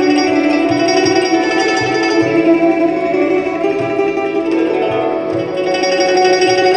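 Live traditional ensemble music led by plucked string instruments, with sustained melodic notes over a steady low pulse.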